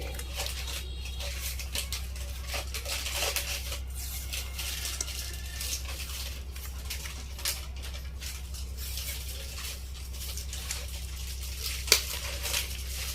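Small scattered clicks, taps and scrapes of tools and small metal parts being handled on a workbench, over a steady low hum.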